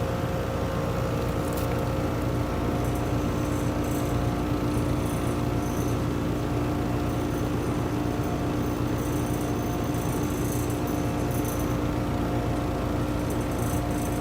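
Outdoor air-conditioning condenser unit running steadily, its compressor humming under the even rush of the condenser fan blowing hot air out of the top.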